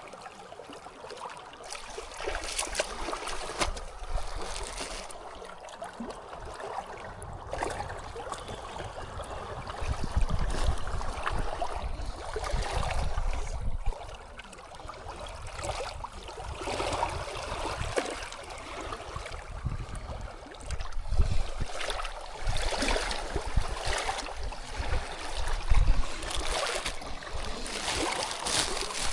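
Flowing stream water, a steady rushing, with a low rumble that comes and goes from about ten seconds in.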